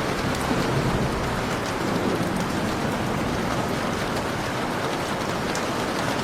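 Heavy, steady rain falling, with many small drop ticks, and a faint low rumble of thunder in the first couple of seconds.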